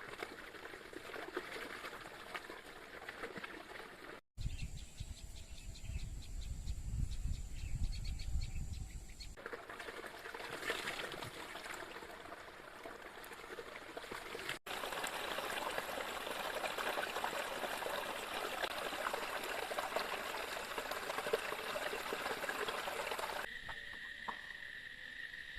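Forest ambience in several abruptly cut segments: a steady rush of water, with insects calling in steady high trills. One segment carries a deep rumble under it, and near the end a single steady insect tone takes over.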